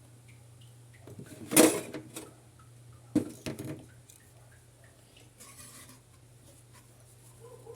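Kitchen utensils and dishes clattering, with a loud knock about a second and a half in and a few more knocks about three seconds in, over a steady low hum.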